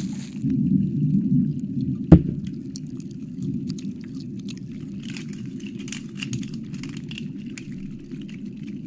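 Close-miked ASMR wet mouth sounds: small licking clicks and crackles, thickest in the second half, over a steady low rumble, with one sharp loud knock about two seconds in.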